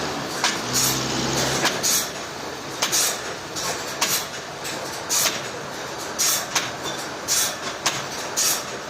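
Sawmill machinery running steadily, with sharp knocks or clanks at uneven intervals, roughly one or two a second.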